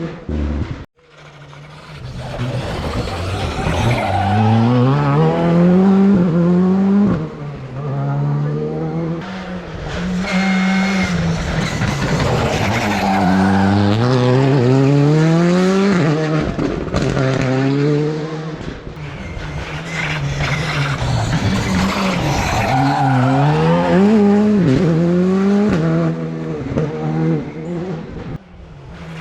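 Rally car engines driven hard on a stage, revving up through the gears again and again, the pitch climbing with each gear and dropping at each shift or lift as the cars pass.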